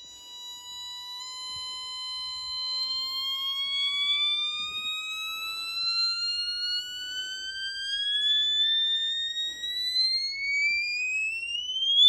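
A steady electronic tone that slowly and smoothly rises in pitch, climbing faster toward the end.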